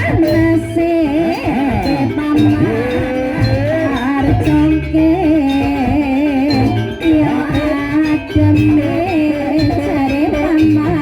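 Loud live band music with a wavering, ornamented melody line over a repeating drum and bass pattern.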